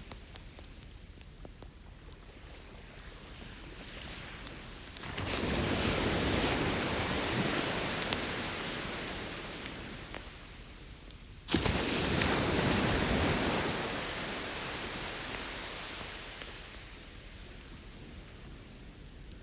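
Ocean waves breaking on a beach: a surge of surf about five seconds in that slowly washes out, then a second, sharper crash about halfway through that fades again. A few faint crackles from a campfire come in between.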